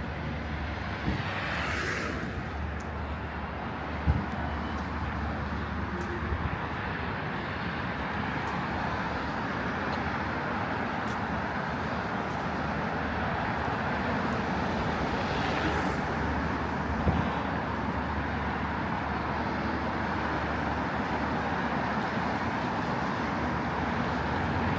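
Steady road traffic along a city street, with two brief hisses and a few sharp knocks.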